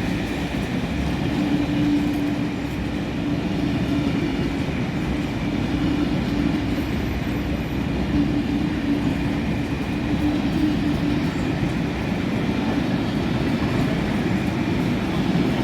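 A train running on the rails: a steady rumble of wheels and running gear, with a constant hum through it.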